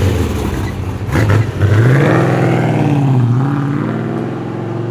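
A performance car's engine revving as it accelerates away, its note climbing sharply about two seconds in, dipping once, then fading as the car moves off.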